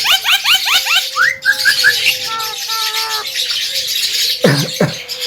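Male Javan myna (jalak kebo) singing: a fast run of rising chirps in the first second, then a few short whistled notes and a held whistle, and two calls sweeping steeply down in pitch near the end.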